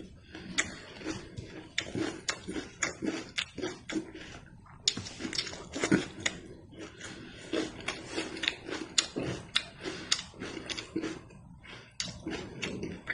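Close-up chewing of meat, with irregular smacking clicks a few times a second.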